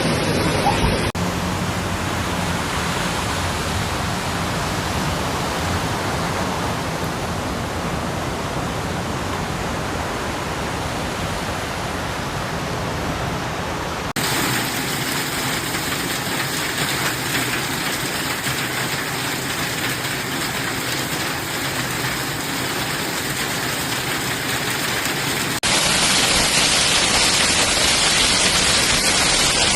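Heavy rain and rushing floodwater, a steady noisy wash with no clear events. Its character changes abruptly about a second in, about halfway through, and again near the end, as one recording gives way to another.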